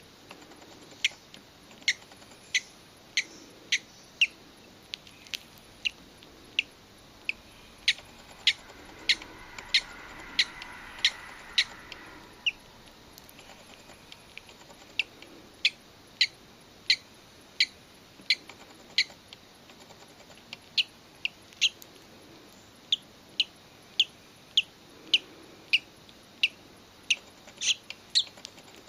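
Hatching parrot chick peeping: short, sharp, high-pitched cheeps repeated about one every two-thirds of a second, pausing briefly near the middle. A faint hiss swells under the calls for a few seconds just before that pause.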